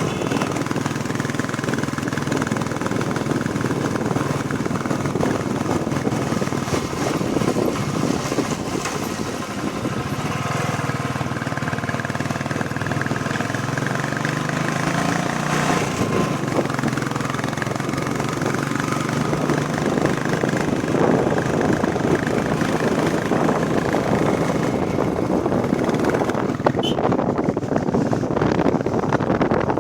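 Royal Enfield Bullet Classic 350's single-cylinder engine running while riding, its pitch climbing for a few seconds around the middle as it picks up speed, with wind rushing over the microphone.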